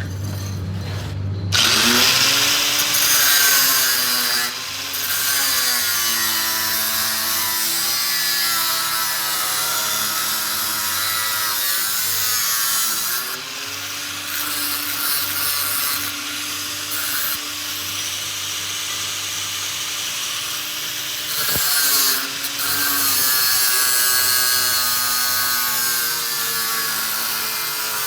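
A power tool running continuously. Its motor whine dips and climbs back several times as it bears on the work, over a steady hiss.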